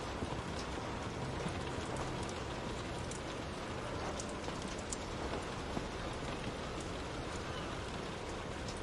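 Steady rain falling, an even hiss with scattered small ticks.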